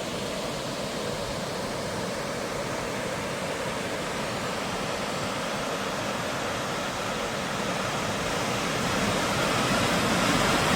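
Water rushing steadily over a waterfall, a constant roar that grows a little louder near the end.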